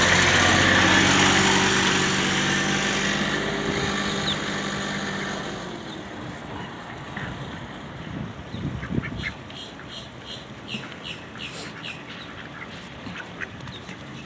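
A vehicle's engine, loud at first, fades away over about six seconds. Ducks then call in a run of short, quick bursts.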